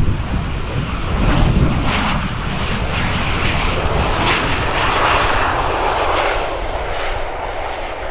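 Jet engines of a landing Boeing 737: a steady rushing roar that swells about five seconds in and then eases, with wind buffeting the microphone over the first few seconds.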